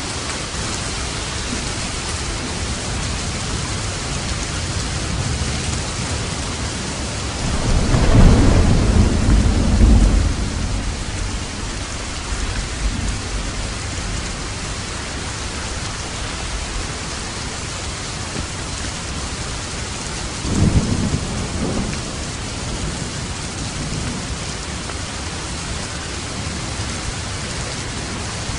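Steady heavy rain on a roof with thunder: a loud rumble about eight seconds in lasting a few seconds, and a shorter, weaker rumble about twenty seconds in.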